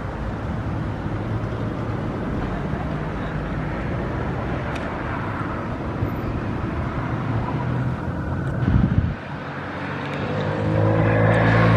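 Steady motor traffic rumble, with a louder swell shortly before the end. Then a vehicle engine's steady hum grows louder as it comes closer.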